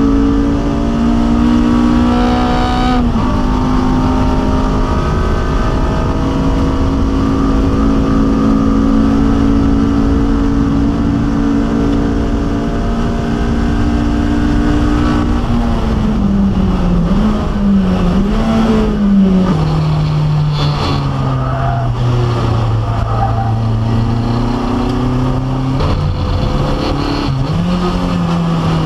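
Honda K24 four-cylinder engine in a Toyota MR2 Spyder, heard from inside the cabin at full throttle. It holds high revs down the straight with an upshift about three seconds in. About halfway through the revs drop and waver as the car brakes and downshifts, then climb again out of the corner, with another shift near the end.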